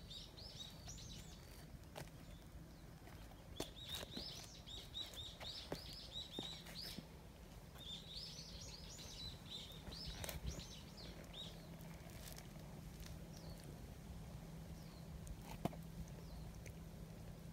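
A songbird singing in the trees: runs of quick, high chirping notes lasting a few seconds each, three times. A few sharp soft taps sound in between.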